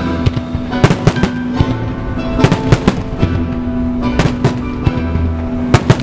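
Starmine fireworks bursting in rapid salvos, many sharp bangs and crackles in quick clusters, over music playing along with the display.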